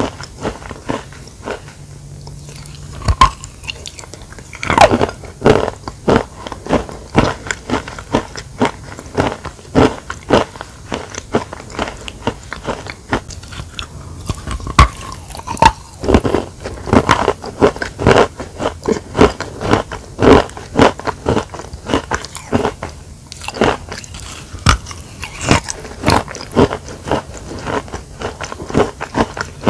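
Biting and chewing crunchy chalk: a dense run of sharp crunches, several a second, with the loudest bites standing out every few seconds.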